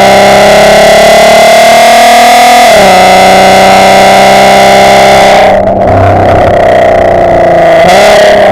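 Volkswagen Golf R32's 3.2-litre VR6 engine through a decat, non-resonated Milltek exhaust, heard close behind the car while driving: the note climbs under power, drops sharply at a gear change about three seconds in, then eases off, with brief breaks near six and eight seconds. It is so loud the recording distorts.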